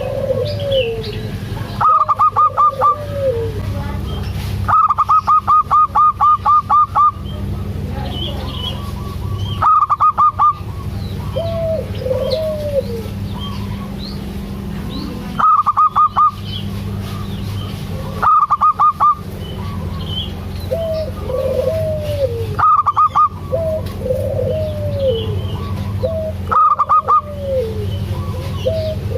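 Zebra doves (perkutut) calling: loud bursts of rapid repeated notes about every few seconds, seven in all, one longer run about five seconds in, with lower arched coos in between. Faint chirps of small birds and a steady low rumble sit underneath.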